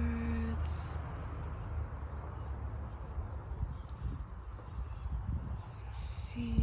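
A small songbird calling in a quick series of short, high, down-slurred chirps, about two a second. A woman's hum holds a single low note until just under a second in and starts again near the end.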